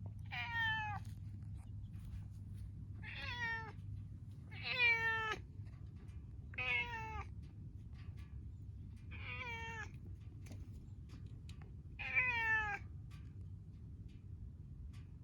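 Domestic cat meowing six times, a few seconds apart, each meow under a second long and dipping in pitch, over a steady low hum.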